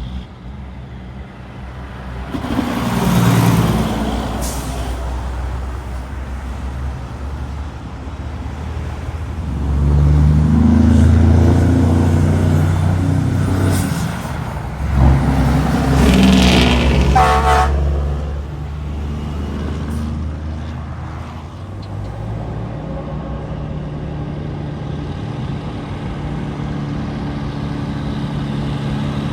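Tractor-trailer trucks passing one after another, their diesel engines swelling as each goes by, about three times. A short horn toot sounds near the end of the third pass.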